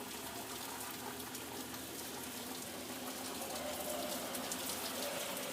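Rain falling steadily: an even hiss dotted with the patter of many small drops.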